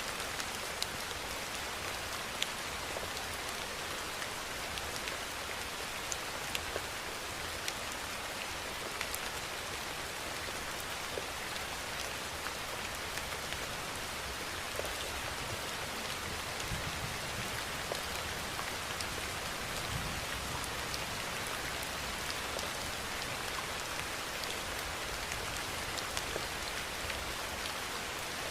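Steady rain falling: an even hiss with scattered sharper ticks of single drops striking a surface.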